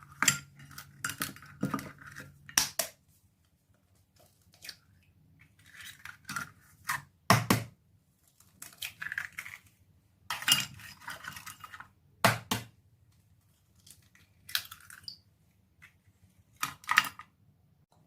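Eggs being cracked into a mixing bowl: a series of sharp taps of shell on the bowl rim, each followed by brief crackling as the shell is broken open, with light clinks against the bowl.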